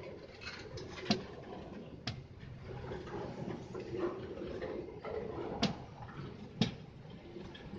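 Rail wagon wheels clicking over a rail joint as tank wagons roll slowly: two pairs of sharp metallic clicks, each pair about a second apart, over a low rumble.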